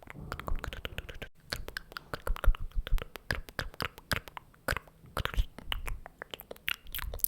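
Close-miked ASMR mouth sounds: rapid wet clicks and pops of the tongue and lips with breathy puffs, in a fast, uneven stream.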